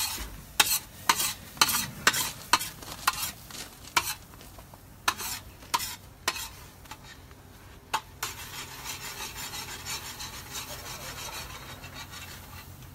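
A metal spatula scrapes and taps repeatedly on a hot cooking surface, about twice a second, while food sizzles. After about eight seconds the tapping stops and a steady sizzle takes over, then cuts off just before the end.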